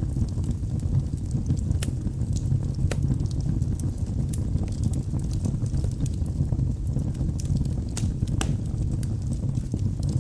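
Wood fire in a fireplace burning with a steady low rumble and scattered sharp crackles and pops, the loudest at about two, three and eight and a half seconds in.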